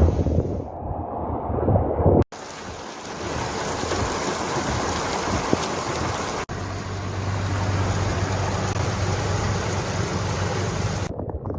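Heavy rain and running rainwater in a steady hiss, with wind rumbling on the microphone, most strongly in the first couple of seconds. The sound drops out for an instant twice, where clips are joined.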